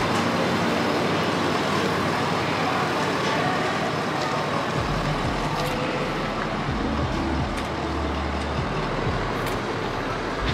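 Steady vehicle and traffic noise, with a low engine rumble coming in about halfway through.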